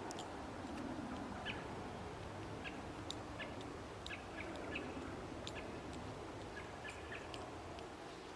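Faint outdoor background noise with scattered brief high chirps from birds and a few light ticks.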